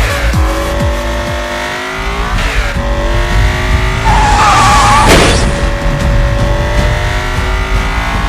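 Race-car sound effects: an engine revving up through the gears, its pitch climbing and dropping back at each shift, with a tire squeal about four seconds in, over music.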